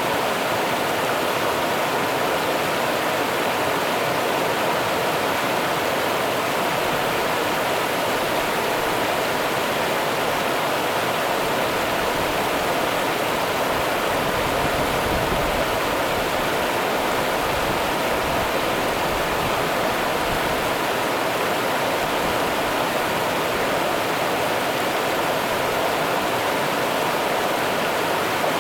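Rio Grande river water running steadily, an even rushing sound with some low rumble of current in the middle.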